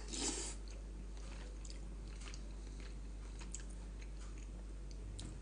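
Faint chewing of a person eating, with soft scattered mouth clicks.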